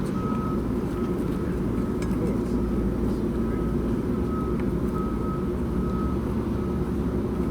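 Honeybees buzzing around an open hive: a steady low hum with no breaks.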